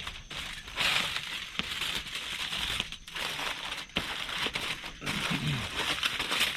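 Aluminum foil crinkling and crumpling as it is folded and crimped around a packet of potatoes, in uneven handfuls with brief pauses about three and four seconds in.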